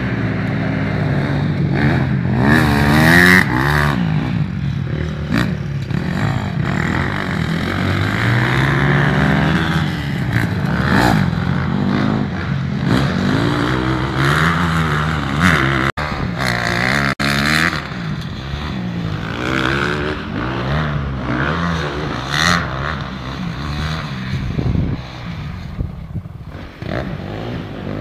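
Honda CRF150R four-stroke single-cylinder dirt bike engine being ridden, its pitch rising and falling over and over as the throttle is opened and closed, with occasional knocks and clatter.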